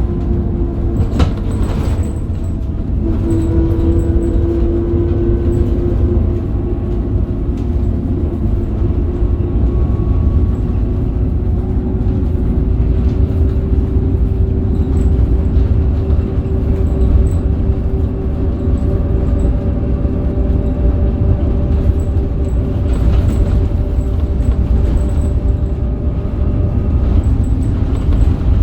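Scania K270UB bus under way, its Scania DC9 diesel running with a steady low drone and a whine that climbs slowly in pitch as the bus gathers speed. A few brief knocks and rattles near the start and again about 23 seconds in.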